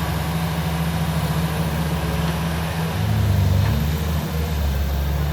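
Heavy diesel engine of an earthmoving machine running steadily, growing louder with a shift in pitch about three seconds in, then settling again.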